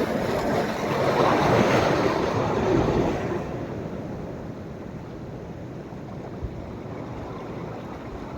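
Sea waves breaking on a sandy beach on a rising tide: a wave's wash swells up over the first three seconds, then eases back to a steady, softer surf hiss.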